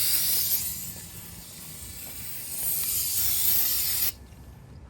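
Aerosol can of solvent cleaner spraying in a long hiss. It eases off in the middle, grows stronger again, and cuts off sharply about four seconds in.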